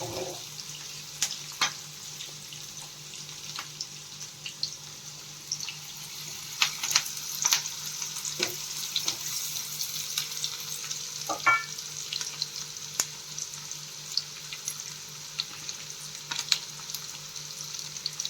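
Onion sizzling in hot oil in a pan, stirred, with sharp clicks of the utensil against the pan now and then.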